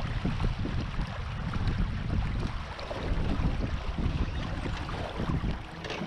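Wind buffeting the microphone in gusts over the wash of water, aboard a small sailboat under way. A faint steady hum joins near the end.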